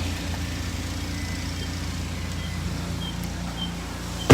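Car engine idling steadily just after being started, with an exhaust note that the muffler needs seeing to. A single sharp knock right at the end.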